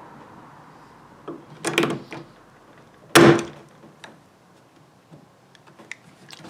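Hand pop-rivet tool squeezed to set rivets in a plastic kayak hull. A cluster of knocks comes a couple of seconds in, then a single sharp snap about three seconds in as a rivet mandrel breaks off cleanly, with light clicks of handling near the end.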